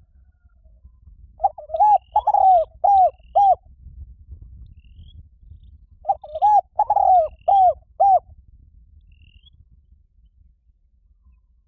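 Spotted dove cooing: two phrases of about five coos each, roughly four seconds apart.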